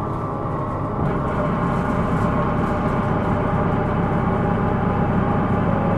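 Interior running sound of a Hino Rainbow II non-step bus: engine and drivetrain rumble under several steady ringing tones, getting a little louder about a second in. The ringing is the abnormal noise (異音) this bus is recorded for.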